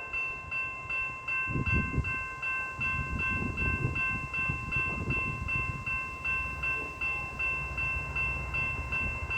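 Level crossing warning bell ringing in quick, even pulses, about three to four a second, while an approaching freight train led by an SD70ACe diesel locomotive adds a low rumble that comes in about a second and a half in.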